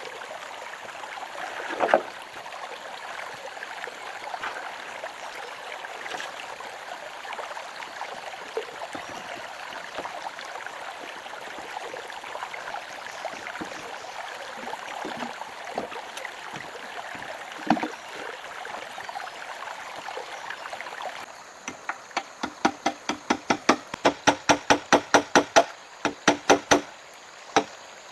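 Steady rushing of running water, like a stream, with an occasional single knock. About twenty seconds in, a fast run of sharp strikes begins, several a second, broken by short pauses, typical of chopping.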